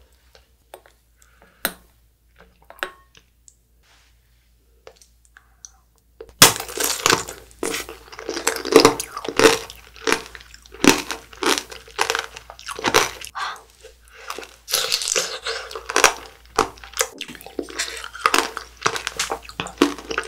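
Close-miked biting and chewing of a white strawberry: a few faint clicks at first, then from about six seconds in a steady run of loud, crunchy bites and wet chewing.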